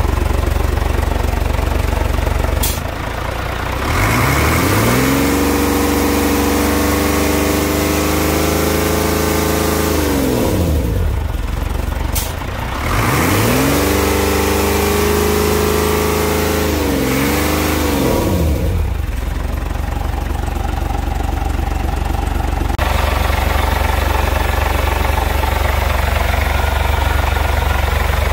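An engine revved up twice over a steady low rumble, each time rising in pitch, held high for several seconds, then let fall back.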